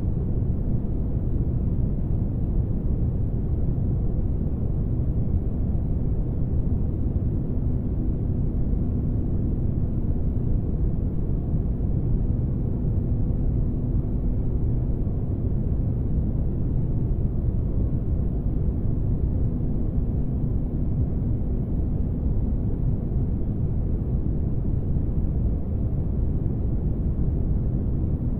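Steady low spaceship-ambience rumble, a deep even noise with a faint steady hum, unchanging throughout.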